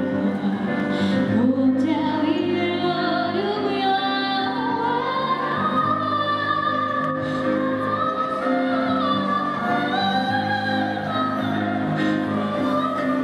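A woman singing a song solo over instrumental accompaniment, holding long, wavering notes.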